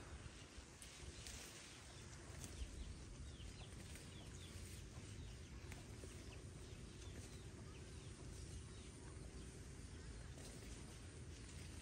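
Faint outdoor ambience: a low rumble with faint short bird chirps scattered through it, most of them in the first few seconds.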